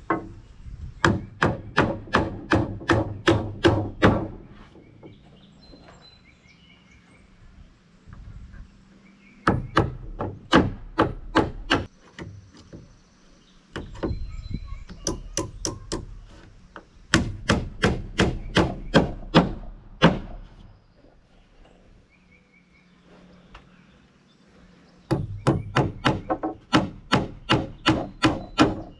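Hammer driving nails into 1x4 wooden purlins, in five runs of rapid blows about four a second, with short pauses between nails.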